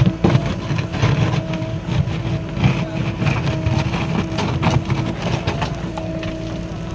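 JCB 3DX backhoe loader's diesel engine running with a steady whine, under irregular knocks and clatter until about six seconds in, then running steadily.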